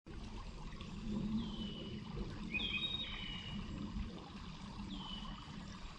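Bird calling: short whistled notes that slide down in pitch, one about a second in, a doubled one a little later and another near the end, over steady outdoor background noise.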